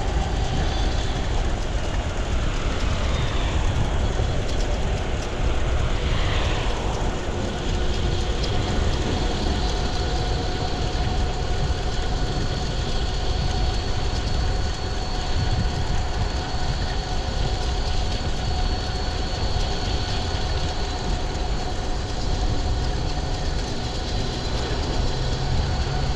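Riding an electric bicycle at about 20 mph: wind rushing over the microphone and road noise, with a steady whine from its 500 W hub motor. Twice in the first few seconds a falling sweep in pitch passes, like a vehicle going by.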